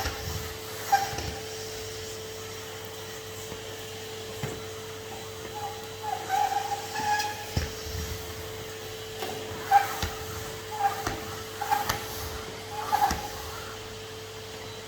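Henry HVR200 620 W cylinder vacuum cleaner running with a steady whine. Brief higher-pitched squeaks and a few knocks come and go as it is worked.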